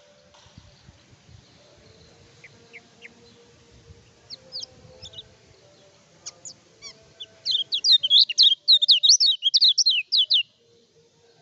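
Kecial kuning white-eye singing: a few scattered thin, high chirps, then about three seconds of loud, rapid chattering chirps, each sweeping up and down, which stop abruptly near the end.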